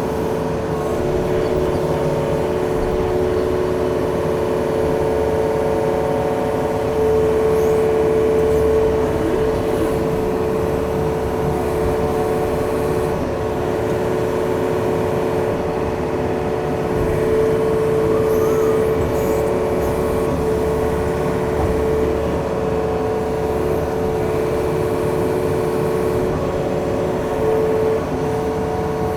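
Yanmar machine's diesel engine running steadily with a pitched drone, swelling a little in level about a quarter of the way in and again past the middle, as it takes load.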